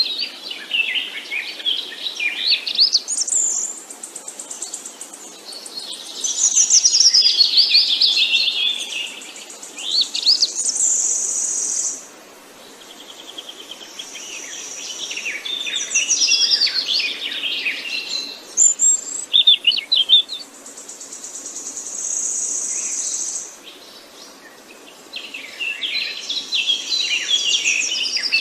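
Songbirds chirping and singing, many short calls overlapping. Stretches of a steady high buzzing trill come and go between them.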